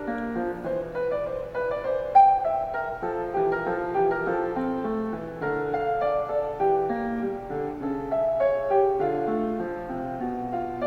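Background piano music: a steady flow of single notes in a gentle melody.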